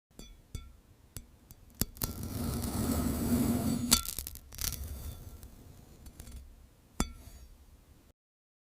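Glassy clinks and taps, each leaving a short ring, with a louder rushing stretch between about two and four seconds in; the sound cuts off abruptly just before the end.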